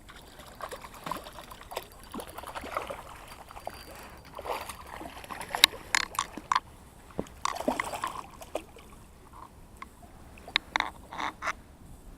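Water splashing and sloshing irregularly, with sharp clicks and taps scattered throughout, busiest in the middle.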